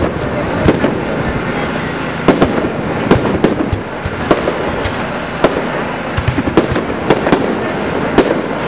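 Aerial fireworks display: shells bursting in a run of irregular sharp bangs, some in quick clusters, over a continuous background of noise.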